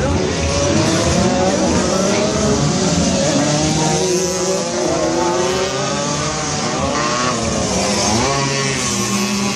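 Several racing motorcycle engines revving, their pitches rising and falling and overlapping as they accelerate and shift gears.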